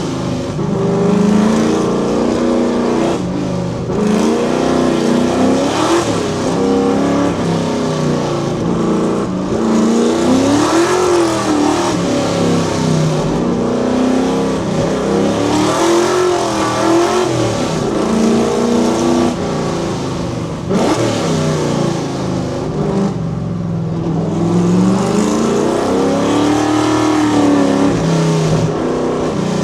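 Fox Body Mustang's 5.0 V8 revving hard under full acceleration. Its loud, raw exhaust note climbs in pitch and then drops, over and over, as the car accelerates and backs off.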